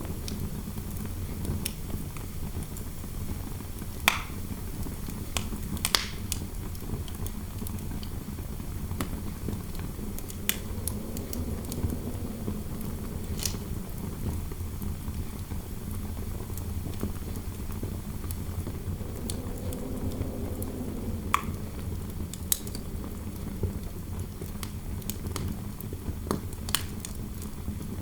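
Fireplace fire crackling with scattered sharp pops over a steady low rumble of indoor wind, which swells into a slow moaning howl and fades twice.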